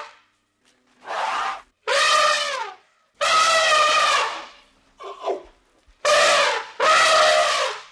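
An animal calling over and over: about six loud, drawn-out cries of half a second to a second each, with short gaps between them.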